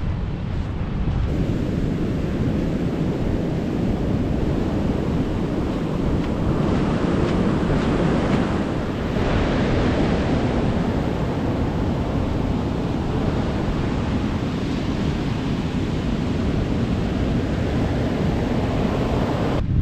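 Ocean surf washing onto a beach, with wind buffeting the microphone; the wash swells louder about halfway through.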